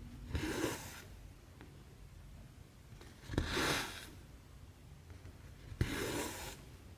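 Needle pushed through taut 11-count cross-stitch fabric and the thread drawn through with a rasping swish, three times about every two and a half seconds, each stroke starting with a light tap.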